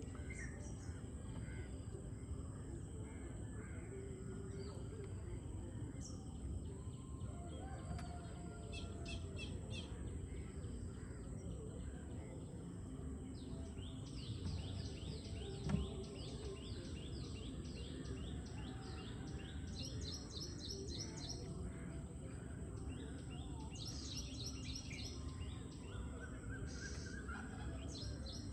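Birds chirping and calling over a steady low rumble of background noise, with a fast run of repeated chirps about halfway through. There is a faint steady high whine and one short knock just past the middle.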